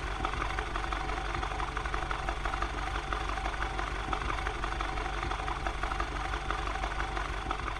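BMW M8 Gran Coupe's twin-turbo V8 idling steadily.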